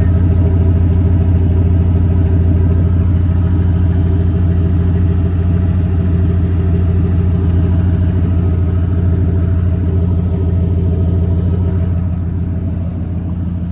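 1997 Ford F-350's 460 V8 engine idling steadily with an even low hum, a little quieter near the end.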